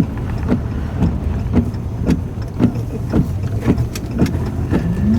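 Vehicle cabin while driving: steady engine and road noise, with short knocks repeating about twice a second.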